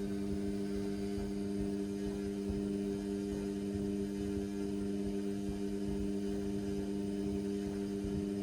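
Indesit washing machine giving a steady electrical hum made of a few held tones, the kind of mains hum its pump or valve makes while running.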